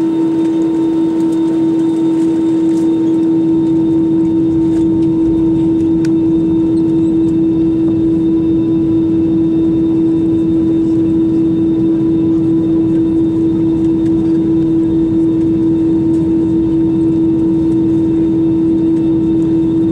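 Steady cabin noise inside an Airbus A320-200: a constant engine and airflow drone with one strong, unchanging hum and a fainter higher tone over it.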